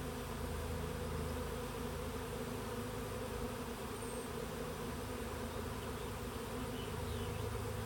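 A swarm of honey bees moving into a Warré hive: a steady, dense buzzing of many bees flying close around the hive.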